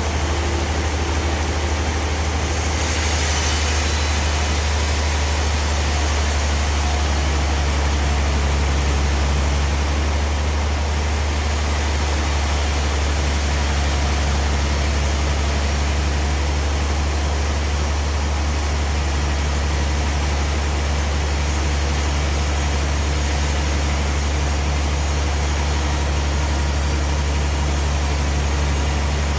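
Sawmill machinery: a large engine running steadily with a constant low drone, and a little more hiss joining in about three seconds in.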